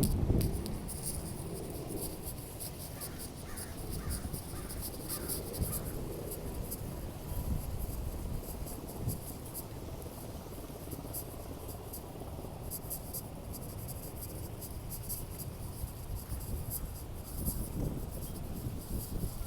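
Wind buffeting the microphone with a steady low rumble, while a bird calls about five times in quick succession a few seconds in.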